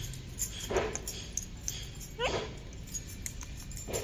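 Pet parrot giving short, squeaky, upward-gliding calls, three in all, about one every second and a half.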